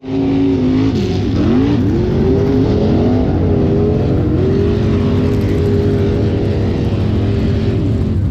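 Mega truck engine revving, its pitch dipping and climbing several times in the first few seconds, then holding steady at high revs.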